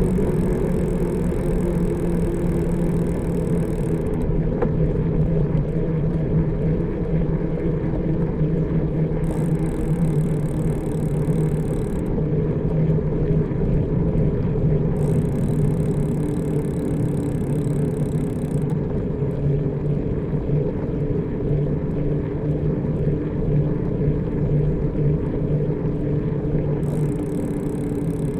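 Steady low hum of a motor vehicle engine mixed with road noise, the hum drifting slightly in pitch.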